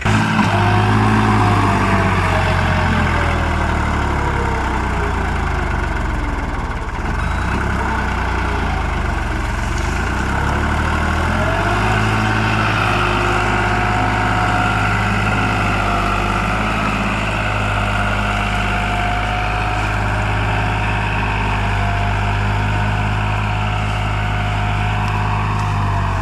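Tractor diesel engine running steadily close by. Its pitch drifts up and down a little, and its low note changes about halfway through.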